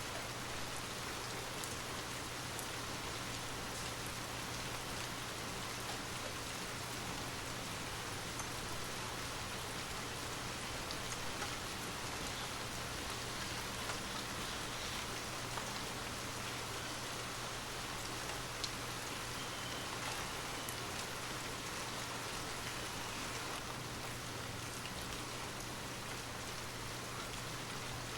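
Steady rain falling: a continuous even hiss with scattered drops ticking, over a faint low hum.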